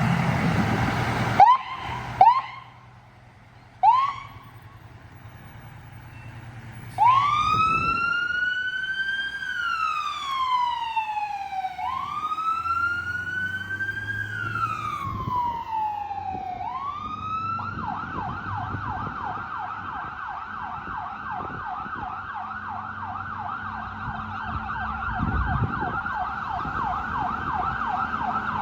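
Fire engine siren on a 1992 Seagrave pumper. A few short chirps, then two slow wails that rise and fall, switching about eighteen seconds in to a fast yelp.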